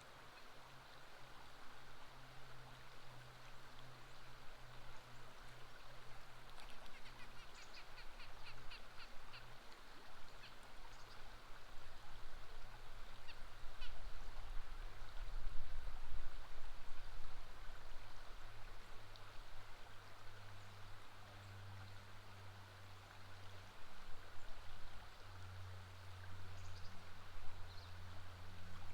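Flowing river water with a steady low hum underneath, and a quick run of short bird calls about seven seconds in, with a few single calls later.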